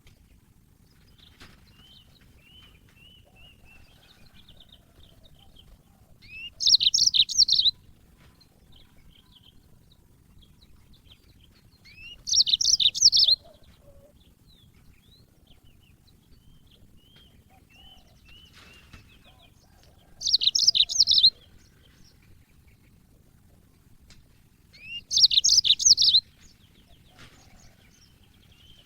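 Yellow-fronted canary (Mozambique canary) singing: four loud bursts of rapid, high twittering song, each about a second long, with soft chirps between them.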